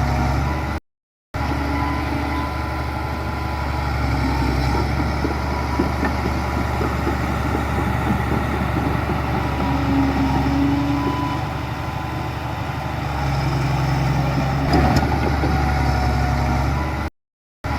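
Diesel engine of heavy earthmoving machinery running steadily, cut by two brief drops to silence, about a second in and near the end.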